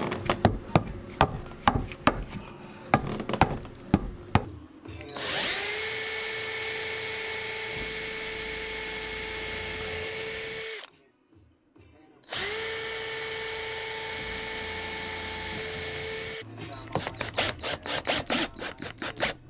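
Power drill run twice, each time spinning up quickly and then held at a steady whine for several seconds, driving into the new subfloor; before and after, a series of sharp knocks.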